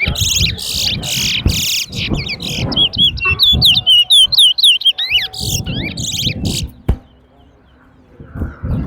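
Towa-towa (seed finch) singing in fast, loud runs of sharp rising-and-falling whistled notes and rapid trills, stopping about seven seconds in. Low murmur of voices underneath, and a single knock as the song ends.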